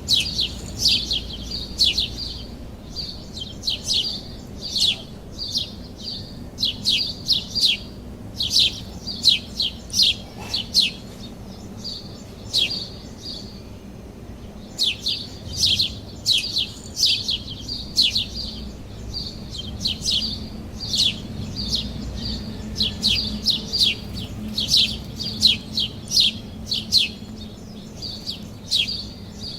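Sparrows chirping: a continuous run of short, repeated chirps, several a second, with a brief pause about halfway through.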